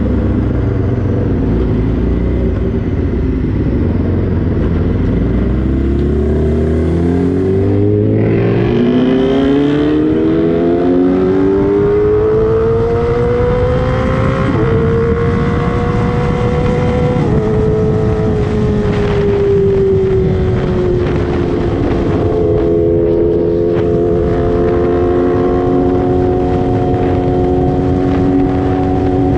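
Sport motorcycle engine accelerating hard, its pitch climbing steadily through the revs, then dropping in two short steps at gear changes about halfway through and settling to a steady high cruise, with wind rushing past throughout.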